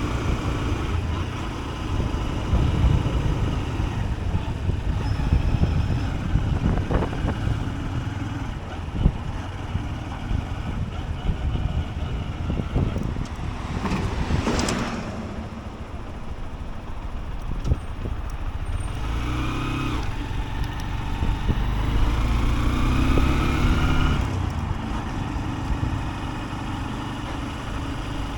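Honda CB125F's small single-cylinder engine running on the move, under a heavy low rumble of wind on the microphone. A brief loud whoosh comes about halfway through, and the engine note rises twice in the second half as the bike accelerates.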